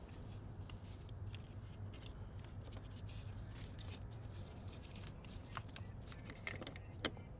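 Faint rustling and small clicks of hands handling tools and battery parts, with one sharper click near the end, over a low steady hum.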